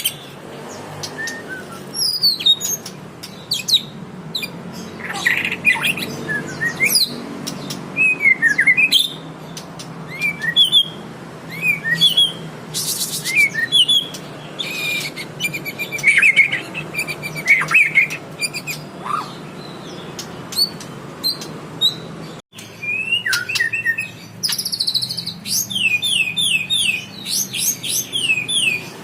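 White-rumped shama singing a varied song of whistled notes, glides and chirps, with quick repeated trilled phrases near the end, over a steady low hum.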